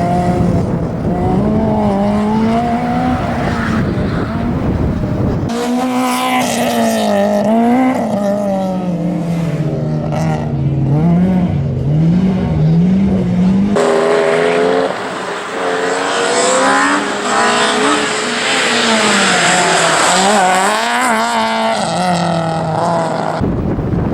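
Citroën AX GTI four-cylinder engine running hard through a slalom course, its pitch repeatedly rising and falling as the driver accelerates, lifts and shifts, with a quick series of throttle blips in the middle. The sound changes abruptly twice, about five seconds in and again near fourteen seconds.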